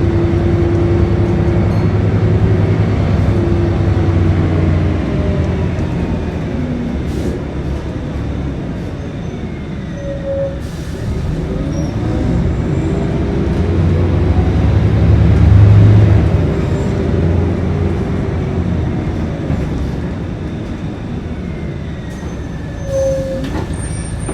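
Scania L113CRB bus engine running under way. It eases off about five seconds in, builds again to its loudest as the bus accelerates about two-thirds through, then eases back.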